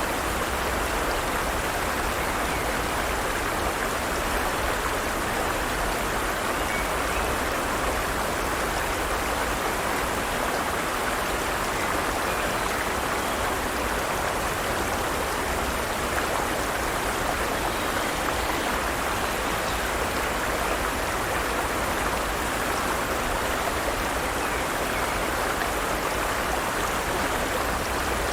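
Forest stream running steadily over rocks: a constant rush of flowing water with no changes.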